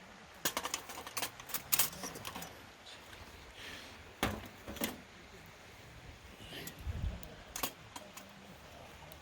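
Several clusters of sharp clinks and clatters: a run of them in the first two seconds or so, two more around four seconds in, and a few more near the end.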